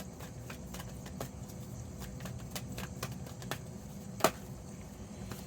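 Tarot cards being handled: scattered light clicks and taps, with one sharper snap about four seconds in, over a low steady background hum.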